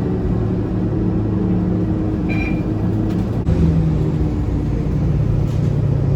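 Scania K230UB bus engine and drivetrain running, heard from inside the bus as a steady low rumble. A short high-pitched tone sounds about two and a half seconds in, and the engine note changes about a second later.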